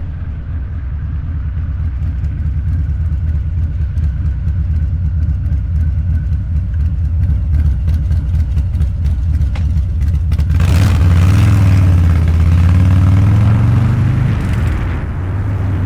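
Harley-Davidson Low Rider's 129 ci V-twin, with a Cycle-Rama CR485 cam and Two Brothers Racing exhaust, pulsing steadily at low revs while riding. About ten seconds in the throttle opens: the revs climb for a few seconds under a loud rush of noise, then ease off near the end.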